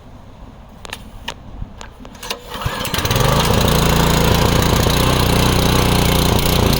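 A few knocks, then about two and a half seconds in the small gas engine of a Westinghouse WPX3200 pressure washer starts up and settles into a loud, steady run.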